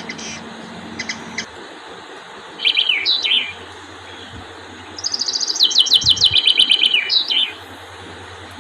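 Hummingbird chirping: quick series of high, thin chirps, each sliding down in pitch, a short burst about two and a half seconds in and a longer rapid run about five seconds in.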